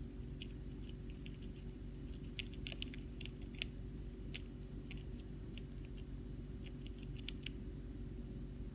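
Hamster chewing cabbage leaf: quick, irregular, crisp little clicks and crunches from its teeth, over a steady low hum.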